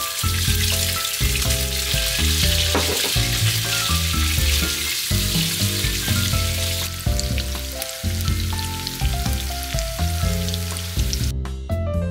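Shredded chicken sizzling in hot olive oil in a small frying pan as it is turned with chopsticks, a steady high frying hiss that cuts off about a second before the end. Background music with a steady beat plays throughout.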